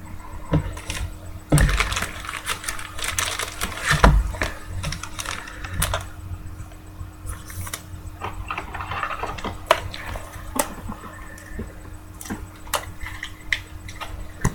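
Typing on a computer keyboard: irregular key clicks, several close together, over a faint steady hum.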